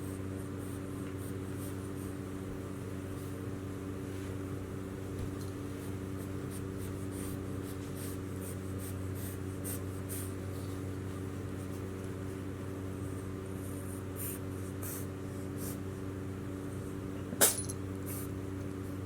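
Steady low hum, with faint scattered ticks and one sharp click near the end.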